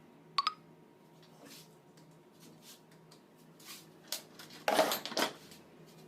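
Metal parts and tools being handled on a workbench: a sharp, ringing metallic clink about half a second in, a few light taps, then a louder clatter and scrape near the end.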